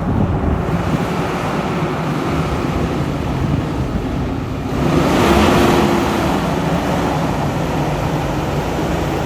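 Semi truck's engine and road noise heard from inside the cab while driving, a steady rumble. It swells into a louder rush for about a second around five seconds in.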